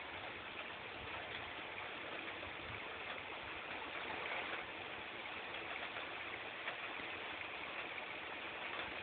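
Steady rain falling in a thunderstorm, an even hiss.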